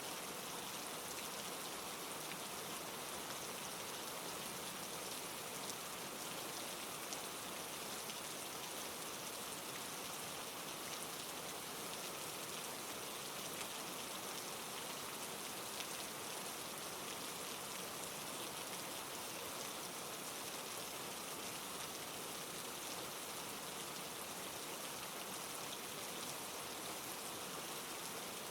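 Steady rain falling, a dense even patter of drops on a surface, with no thunder or change in strength.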